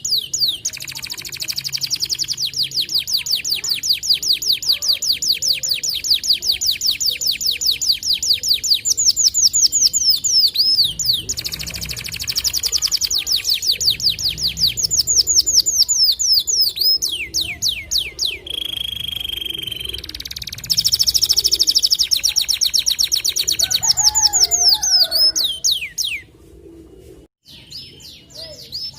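White canary singing long, rapid trills of quickly repeated high notes, with a steady held whistle about two-thirds of the way through. The song breaks off about three seconds before the end.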